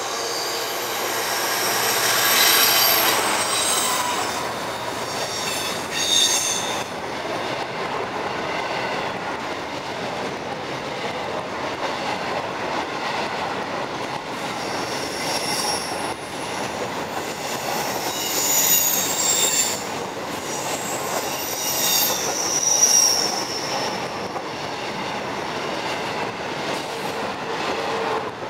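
Freight train of empty coal wagons hauled by a Class 66 diesel locomotive, rolling past with steady wheel-on-rail noise. The wheels squeal in high, ringing tones several times: about two seconds in, around six seconds, and again repeatedly past the middle.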